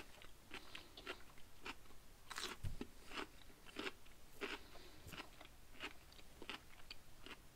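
A person chewing raw cucumber slices: faint, irregular crisp crunches with small pauses between bites.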